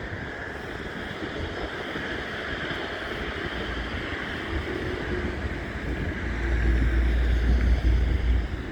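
City street traffic noise, with a deep rumble that swells and grows louder about six seconds in and fades just before the end, as a vehicle passes close by.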